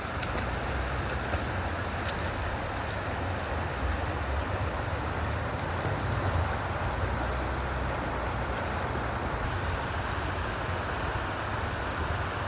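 Steady wind and water noise, with a low rumble of wind buffeting the microphone and a few faint clicks near the start.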